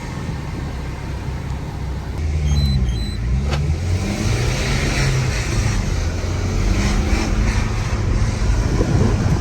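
BMW 318d's four-cylinder turbodiesel engine pulling under acceleration, heard from inside the cabin; it gets louder about two seconds in, with its pitch rising and dropping over the next second or so, then runs steadily. It is running on a stage 1 plug-in tuning box, and sounds the same as before the tune.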